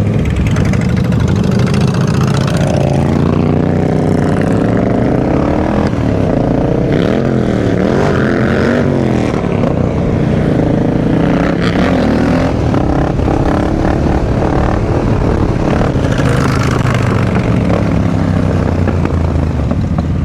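Motorcycle engine being ridden, its pitch climbing and falling several times through the middle as the rider accelerates, shifts and eases off.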